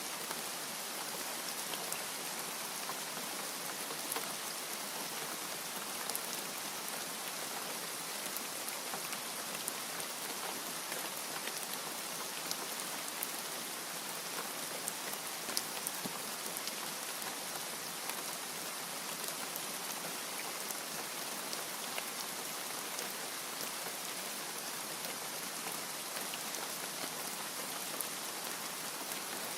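Steady rain falling, an even hiss with scattered sharper drop hits on a surface.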